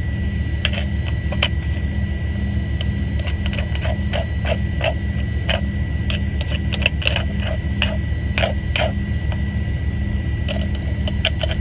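Utensil scraping and stirring rice in a pan in short, irregular strokes, loosening rice stuck to the bottom. Under it runs a steady engine drone with a faint high whine.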